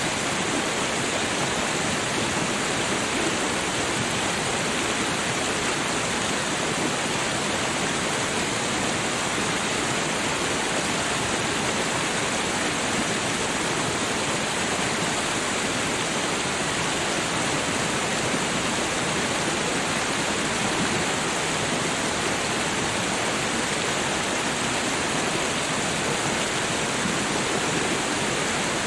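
Steady rushing of a babbling creek, an even wash of water noise that doesn't change.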